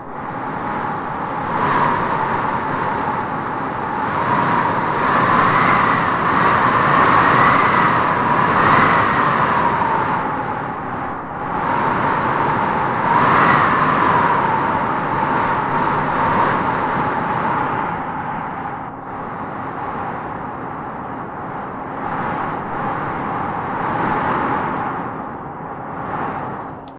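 Howling wind in gusts: a steady rush with a whistling howl that rises in pitch and loudness as each gust builds, strongest about five to nine seconds in and again around thirteen seconds, then easing.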